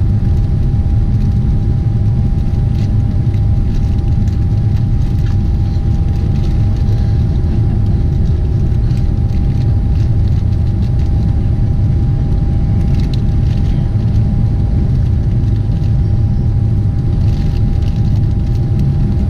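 Steady low rumble of cabin noise inside a Boeing 747-8 airliner in flight, with a faint steady tone held throughout.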